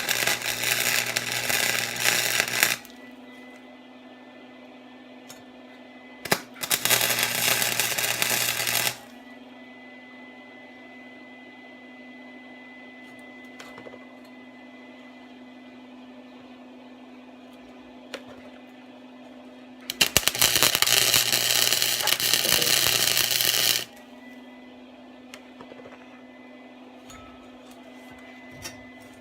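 Welder laying beads on exhaust pipe in three loud bursts of a few seconds each, every burst starting and stopping sharply, with a quieter steady hum between them.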